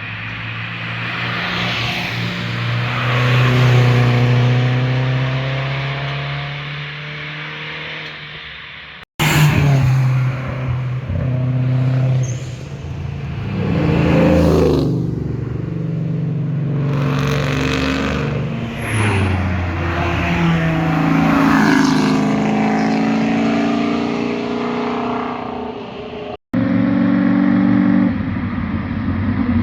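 Several performance cars' engines and exhausts passing by one after another, revving up and down through the gears. The first car swells to its loudest about four seconds in and fades; after an abrupt cut, more cars pass with repeated rising and falling revs; a final abrupt cut near the end brings in another loud car.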